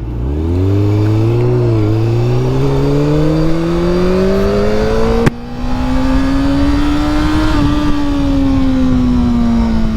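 Motorcycle engine pulling up through the revs as the bike accelerates, the pitch climbing steadily for about five seconds, with a short break and click about five seconds in, then rising a little more before easing off and falling slowly.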